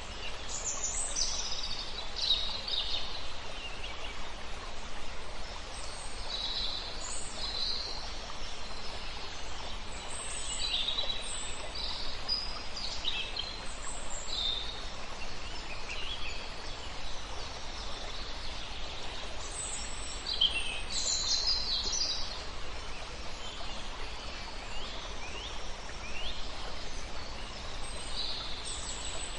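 Several songbirds chirping and singing in short, overlapping phrases over a steady rush of river water.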